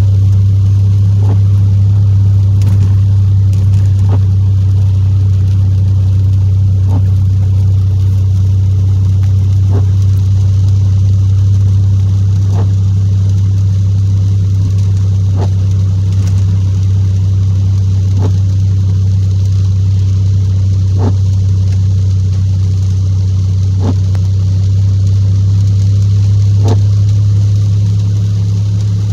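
Cabin sound of a Chevrolet Impala SS's supercharged V6 droning steadily at cruise, with a windshield wiper sweep ticking across the glass about every three seconds.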